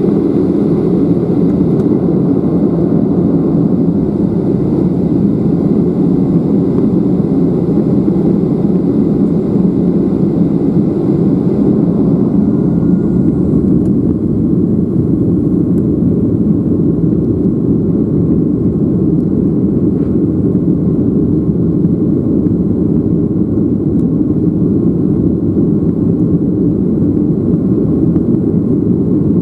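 Boeing 737-800's CFM56-7B jet engines running steadily at takeoff power: a dense, even, low-pitched noise that holds at the same level throughout.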